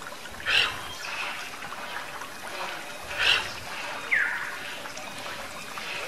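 Bird calls over a steady stream-like rush in the background: two loud harsh calls, one about half a second in and one about three seconds in, then a short clear note falling in pitch about four seconds in.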